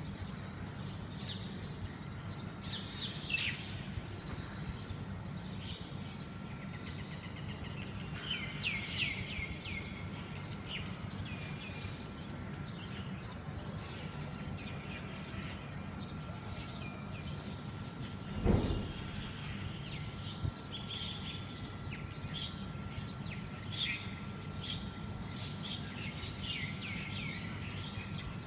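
Oriental magpie-robins fighting, calling in repeated clusters of short, downward-sweeping chirps. A faint steady whine and a low rumble run underneath, and a single low thump comes about two-thirds of the way through.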